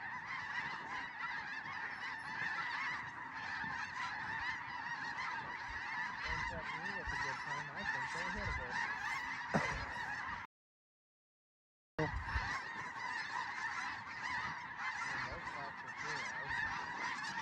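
A large flock of snow geese calling in a dense, continuous chorus of honks. The sound cuts out completely for about a second and a half a little past the middle, then the chorus resumes.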